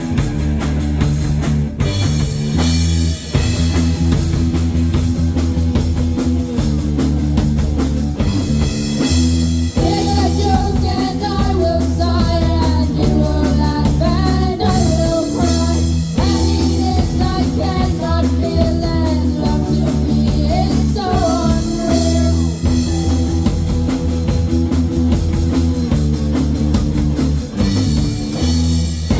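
Live rock band playing: electric guitar, bass and drum kit, with a bending lead melody coming in about a third of the way through.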